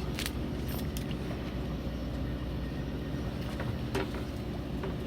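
A fishing boat's onboard motor running with a steady low hum, with a few faint clicks over it.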